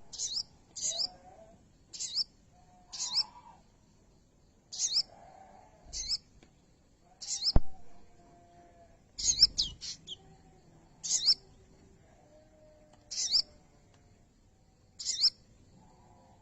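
A sogo bird, on its first day of taming, calling with short high-pitched chirps, each a quick upward sweep, about ten in all at intervals of one to two seconds. A sharp click sounds once, midway.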